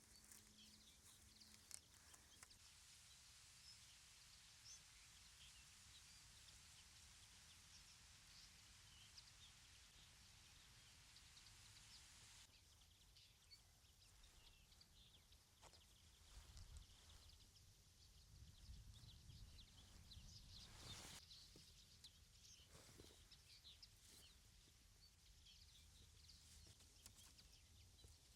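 Near silence: faint outdoor ambience with scattered small chirps.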